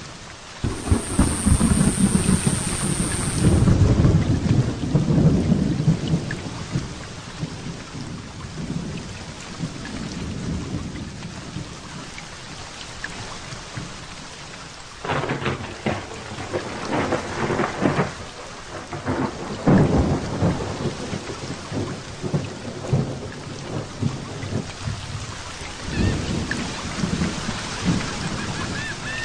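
Heavy rain falling steadily during a thunderstorm. A long, low rolling rumble of thunder starts about a second in, and sharper crackling peals of thunder come about halfway through.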